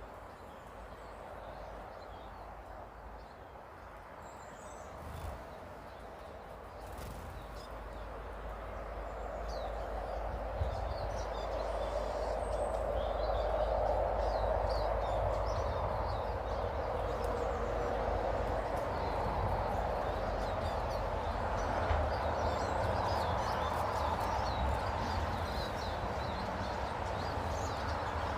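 Small garden birds chirping and twittering in short calls, more of them in the second half, over a background rumble that grows louder about a third of the way in.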